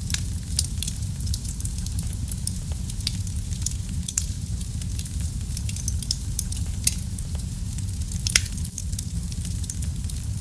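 Wood fire burning in a fireplace: a steady low rumble of the flames with a constant scatter of small sharp crackles and pops, two louder pops about seven and eight seconds in.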